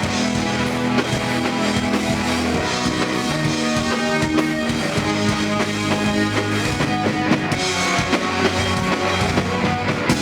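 A rock band playing live, an instrumental passage with a full drum kit, electric guitar and bass.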